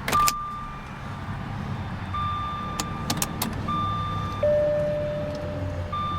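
1997 Jaguar XK8 Coupe's electronic warning chime beeping repeatedly, higher short beeps taking turns with lower longer ones, over a steady low rumble from the car, with a few sharp clicks near the start and in the middle.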